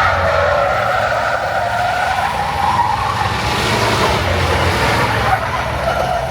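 Car tyres squealing in a long, wavering screech over the engine's low running as a car spins donuts.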